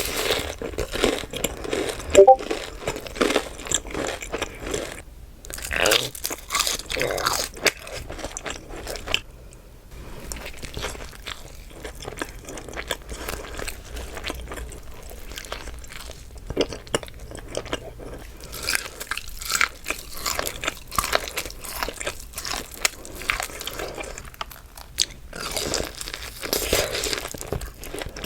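Close-miked crunchy bites and chewing of crispy Wingstop food: bursts of crunching with quieter chewing between them.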